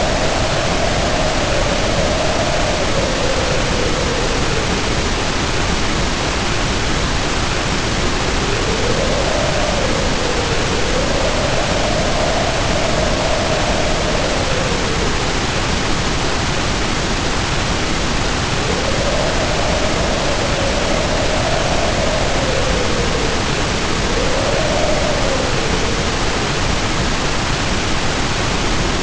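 Heavy rain pouring down in a steady hiss, with wind howling over it; the howl swells and falls in pitch several times.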